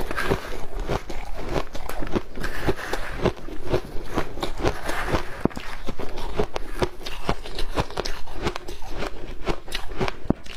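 Ice coated in matcha powder being bitten and chewed close to the microphone: a steady run of sharp, irregular crunches and cracks, several a second.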